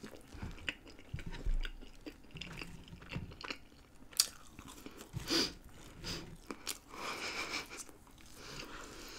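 A person eating close to a microphone: biting into a burger and chewing, then chewing French fries, with wet mouth sounds and scattered small clicks. A sharper click comes about four seconds in.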